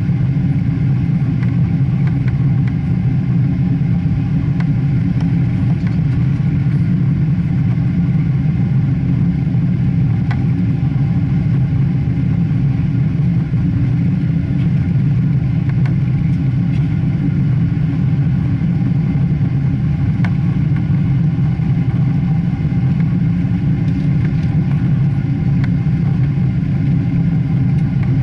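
Boeing 777 jet engines and airflow heard from inside the passenger cabin: a steady, loud, deep rumble that holds level throughout, with faint steady tones above it.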